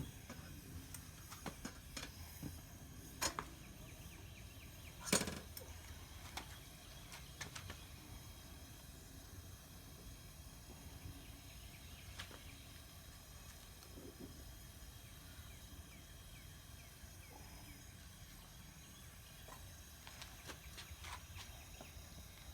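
Faint steady background hiss with scattered light knocks and clicks, the loudest about three and five seconds in.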